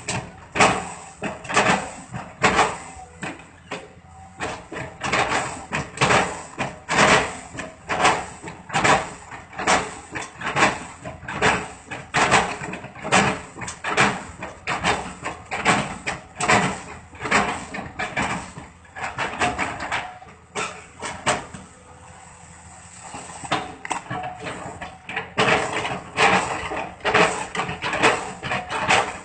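Excavator bucket chipping felled palm trunks: repeated heavy chopping strikes, about one to two a second, with a lull of a few seconds past the middle.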